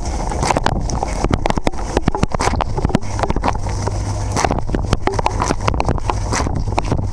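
Dishwasher running, heard from inside the tub: the spray arms' water jets spatter and splash against the camera and dishes in quick, irregular hits, over the steady low hum of the wash pump.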